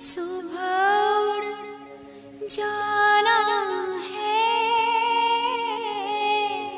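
A woman's voice singing a Hindi bidaai (bride's farewell) folk song in two long, wavering held phrases over a steady drone.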